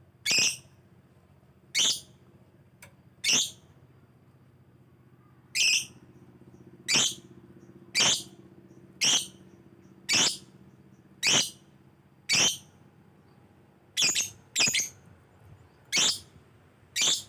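Yellow lovebird calling: about fourteen short, high-pitched calls, roughly one a second with a couple of longer gaps and a quick pair near the end.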